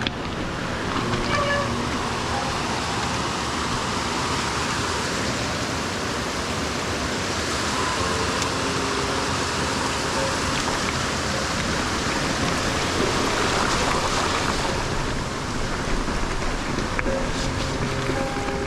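Steady rush of water from a creek or waterfall, with faint music underneath.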